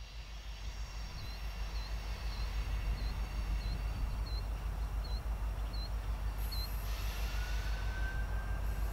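Low, steady rumble of a distant Union Pacific freight train approaching behind two EMD SD70ACe diesel-electric locomotives with 16-cylinder two-stroke engines, growing louder over the first second or two. A bird chirps about every half second through the first part, and a faint rising tone comes in near the end.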